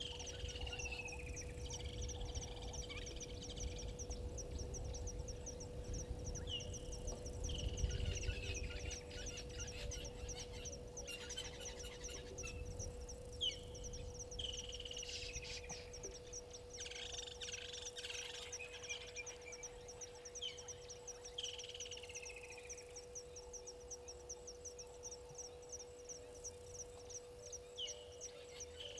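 Bush ambience at a waterhole. A bird repeats a call about every seven seconds: a short high note followed by a longer falling whistle. Under it run a fast, steady insect trill and a low steady hum, with a low rumble of noise that is strongest about eight seconds in.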